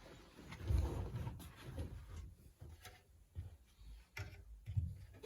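Bedding being loaded into a tumble dryer drum: soft, irregular knocks and rustling, with a few light clicks.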